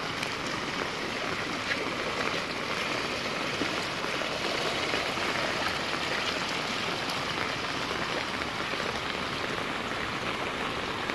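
Tropical-storm rain falling steadily on a paved street, with runoff water streaming down the road.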